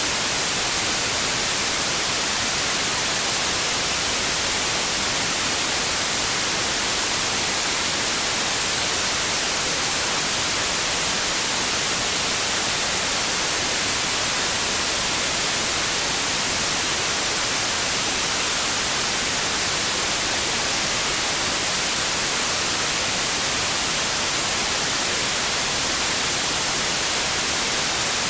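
Steady white noise: an even, unchanging hiss, brighter in the high frequencies, with no variation.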